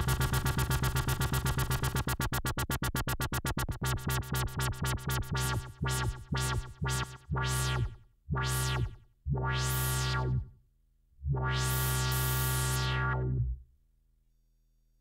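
Malekko Manther analog synthesizer repeating one low sequenced note. The notes start as a fast buzzing stream and slow down to a few long, separate notes about a second apart, then stop near the end.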